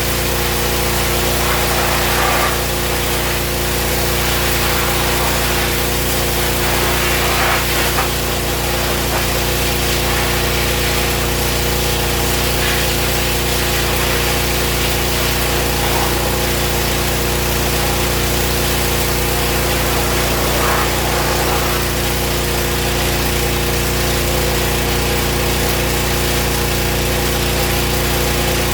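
A motor running steadily at an unchanging speed, a small engine or power tool, with a few faint scraping sounds over it.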